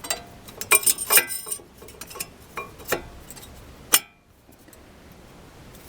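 Metal-on-metal clinks and clicks of new front brake pads being handled and fitted into the brake caliper bracket: a string of sharp knocks over about four seconds, several close together about a second in and the loudest one near the end.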